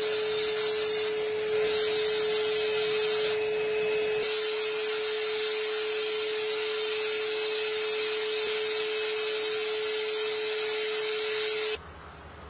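A steady electric motor running with a constant hum and a hissing rush, which shuts off suddenly near the end.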